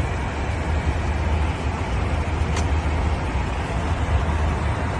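Steady in-flight cabin noise of a commercial airliner, jet engine and airflow noise heard from inside the passenger cabin, with a faint click about two and a half seconds in.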